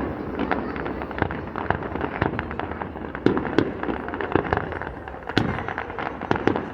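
Fireworks display: a rapid, irregular crackle of small aerial shells bursting and popping, several a second, with a few louder bangs among them.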